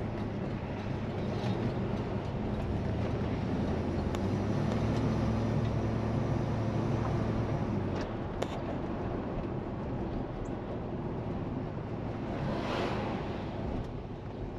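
1968 Plymouth Fury's 383 V8 and road noise heard from inside the cabin while driving, a steady low rumble that grows stronger for a few seconds and eases off about halfway through. A single sharp click comes just after it eases, and a brief rushing sound swells and fades near the end.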